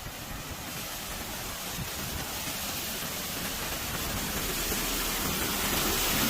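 Steady rushing of water in a flooded street, an even hiss that grows gradually louder.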